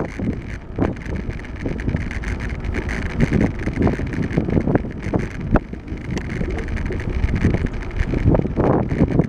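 Wind rumbling over the microphone of a camera carried on a moving bicycle, with irregular knocks and rattles from the ride.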